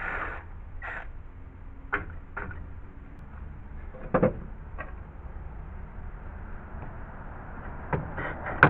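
Knocks and clicks of tools and screws being handled while screws are taken out of a wooden deck: a couple of short squeaky bursts at the start, then a handful of sharp knocks, the loudest about four seconds in, over a low steady rumble.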